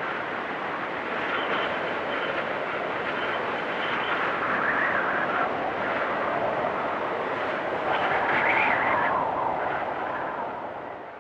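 Storm wind blowing hard, with gusts swelling twice and a faint high whistle early on, dying down near the end.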